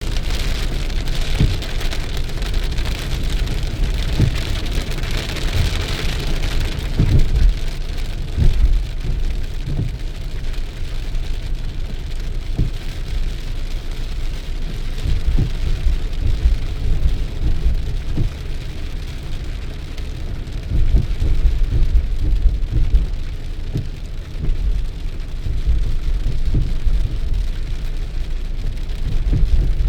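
Rain falling, its hiss strongest in the first several seconds, over a continuous low rumble broken by frequent short low thumps.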